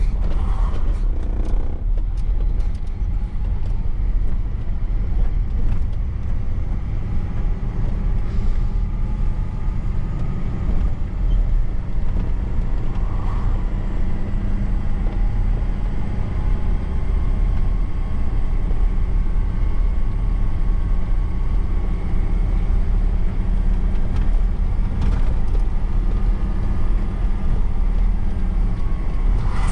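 Truck's diesel engine running steadily under way, with a low rumble and road noise, and a few faint knocks.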